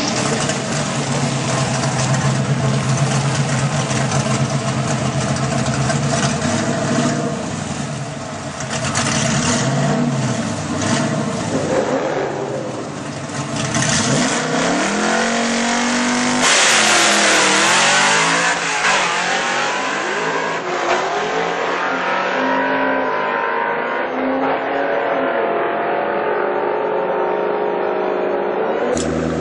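Fourth-generation Chevrolet Camaro drag car's engine held at steady high revs through a burnout, then blipped up and down as it stages. About 16 seconds in it launches hard, the engine winding up in pitch through several gear changes as the car pulls away down the strip.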